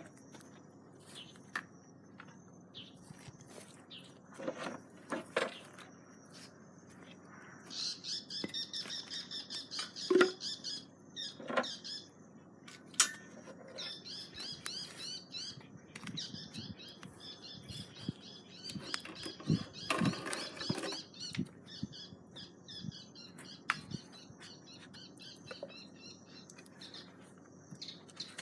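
Bird chirping in quick, repeated high trills in several runs, with scattered knocks and clicks.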